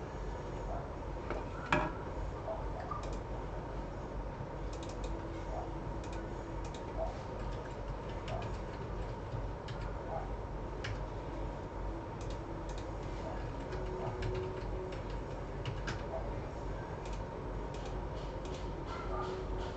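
Scattered small clicks and ticks from hand tools working on a circuit board, one sharper click about two seconds in, over a steady low hum and faint steady tones.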